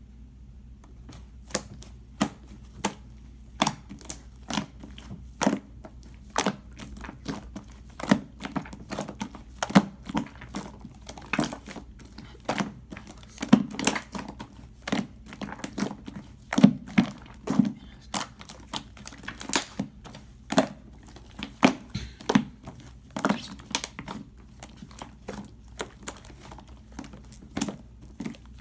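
Slime being squeezed and folded by hand to pop trapped air pockets (kkwari), making an irregular run of sharp pops and clicks, about two to three a second.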